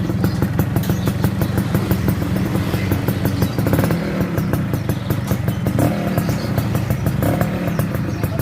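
Suzuki FIZ R two-stroke motorcycle engine running through a stainless racing exhaust, getting louder at the start and then holding a steady, rapid, crackling beat of exhaust pulses.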